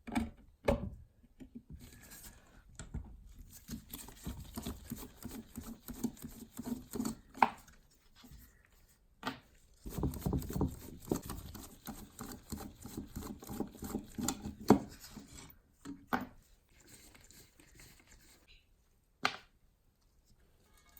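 Hand-tool work on small hard parts: irregular scraping and rubbing with clicks and clinks, broken by several sharp knocks, the loudest about fifteen seconds in.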